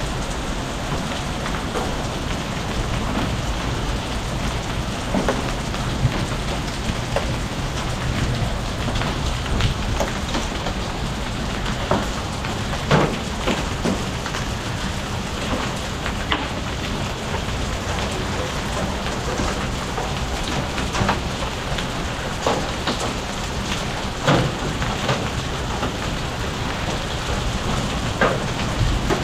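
Rain falling steadily, with scattered sharper drop impacts every few seconds.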